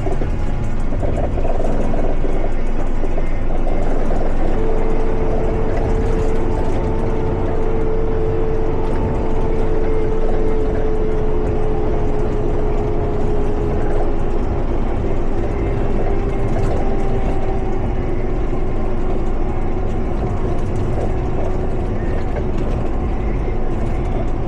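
Water truck's diesel engine running steadily with a low rumble, joined about five seconds in by a whine that slowly drops in pitch.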